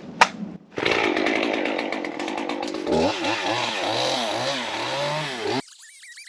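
Stihl MS 201 TC two-stroke top-handle chainsaw running, its revs rising and falling again and again, then cutting off suddenly near the end.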